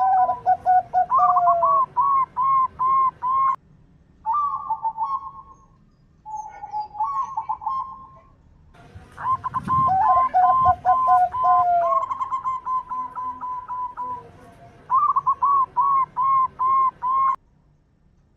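Zebra doves (perkutut) cooing: phrases of quick, repeated bouncing notes, with a second, lower-pitched bird overlapping at times. The song breaks off in short pauses and stops shortly before the end.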